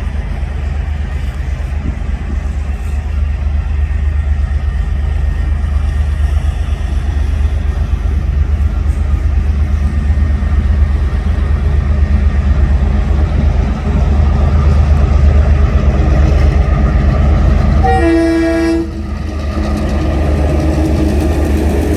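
TasRail DQ-class diesel locomotive leading a freight train towards a level crossing, a steady low rumble that slowly grows louder. Near the end it sounds its horn once, a chord held for about a second.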